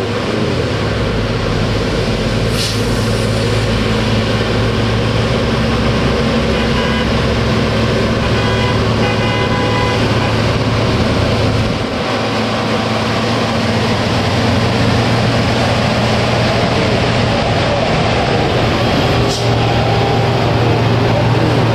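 Heavy diesel truck engine labouring uphill under load, a steady drone that builds over the first couple of seconds and dips briefly about halfway through.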